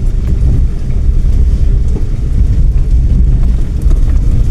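Car on the move, heard from inside: a steady, loud low rumble of engine and road noise.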